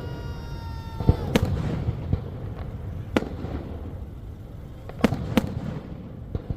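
Fireworks going off: a string of sharp bangs over a steady low rumble, the loudest pair of reports about five seconds in. A held pitched tone sounds at the start and dips and stops about a second in.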